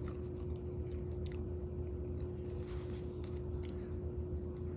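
A person chewing food close to the microphone, with a few sharp wet mouth clicks, over a steady low hum.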